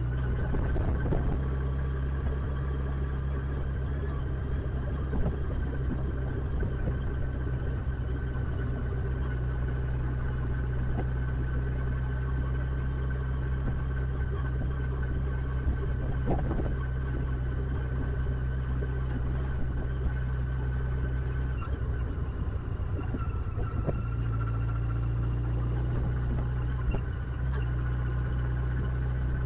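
Motorcycle engine running steadily, with a short dip in its low note about 22 seconds in.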